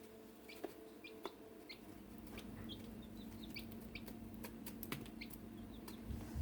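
Silkie chicks cheeping: many short, high peeps scattered through, mixed with sharp little clicks of beaks pecking at dried mealworms and shrimp. A steady low hum runs underneath.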